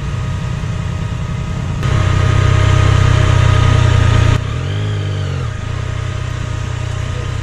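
Motorcycle engine idling steadily. It gets louder for about two and a half seconds from about two seconds in, drops back suddenly, then its pitch briefly rises and falls.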